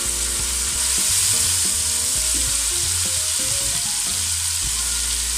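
Diced chicken frying in oil in a nonstick pot, a steady sizzle, while it is stirred with a silicone spatula.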